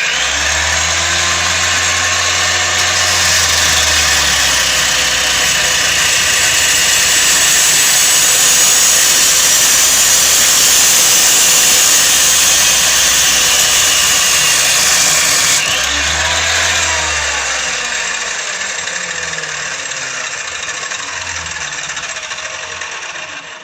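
2 kW angle grinder with a 230 mm disc, mounted as a chop saw, starts suddenly and cuts metal with a loud, steady abrasive grinding hiss. About 16 seconds in the cutting hiss drops away and the motor winds down with falling pitch, fading near the end.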